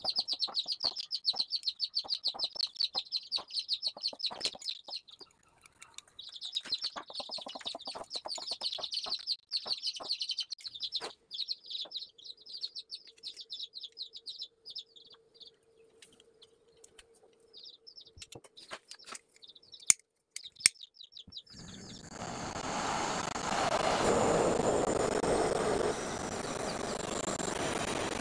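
Small birds chirping rapidly and continuously, with scattered handling clicks; about three-quarters in, two sharp clicks and then a steady loud hissing roar of a torch flame starts suddenly and runs on.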